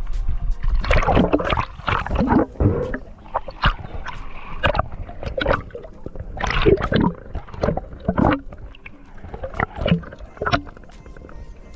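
Water sloshing and gurgling in loud, irregular surges, the sound of a spearfisher moving through the water.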